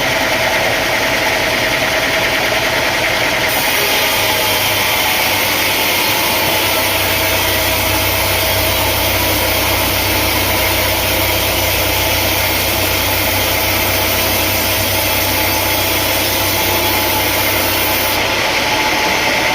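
Engine-driven sawmill machinery running steadily with a constant whine. A deeper low hum comes in a few seconds in and drops away near the end.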